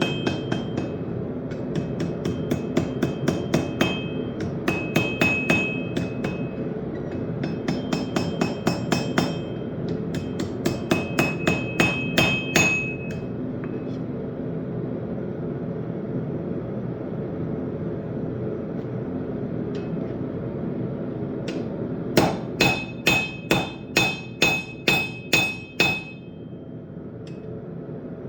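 Hand hammer striking hot steel on an anvil in runs of blows, each strike ringing, with a pause of several seconds in the middle and a final quick run of about ten blows. A steady low rumble continues underneath.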